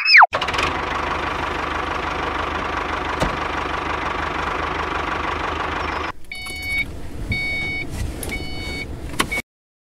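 Tractor engine running steadily. About six seconds in it drops quieter, and a reversing alarm beeps four times, about once a second, before the sound cuts off suddenly.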